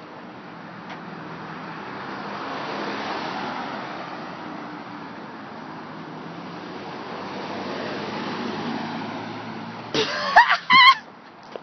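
Motorcycle engine running as the bike moves about, its sound swelling louder and fading twice. Near the end a loud, high-pitched, wavering cry breaks in.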